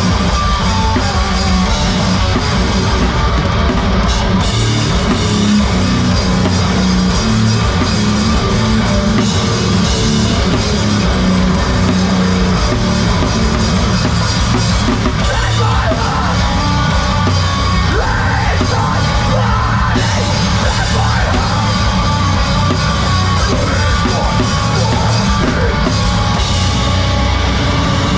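Live heavy rock band playing loud and steady, with a drum kit and yelled vocals.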